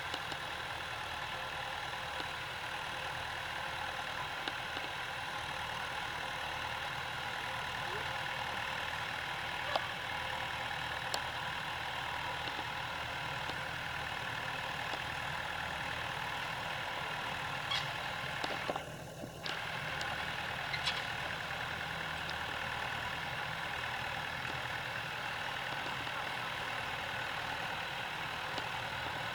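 Tractor engine running steadily while levelling out a field, with a few light knocks.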